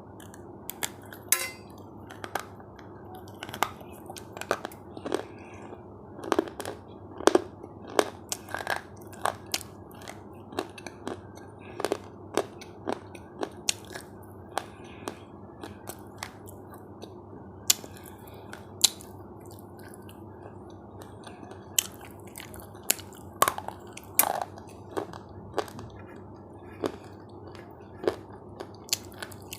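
Crunchy food being bitten and chewed close to the microphone: sharp, irregular crunches about one or two a second over a steady low hiss.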